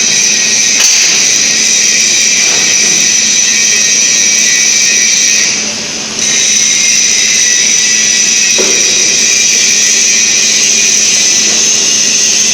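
Steady, loud machine whine with a hiss over a low hum, dipping briefly about six seconds in.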